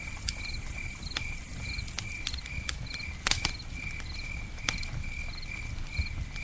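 Campfire crackling with scattered sharp pops, the loudest about halfway through, over a low rumble. A cricket chirps steadily throughout, one short chirp roughly every half second.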